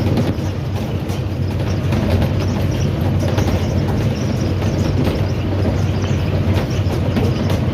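Steady rumble of a locomotive under way, heard from inside its cab, with the wheels running over the rails and faint irregular clicks.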